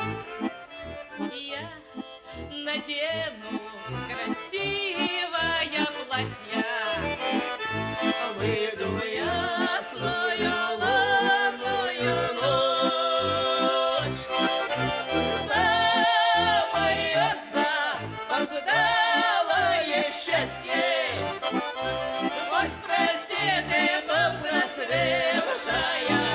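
Accordion playing an instrumental folk tune, a wavering melody over a steady pulse of bass notes, softer for the first few seconds and then fuller.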